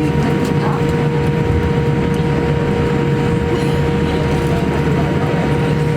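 Steady rumble of a vehicle's interior with a constant hum running underneath, and faint distant voices.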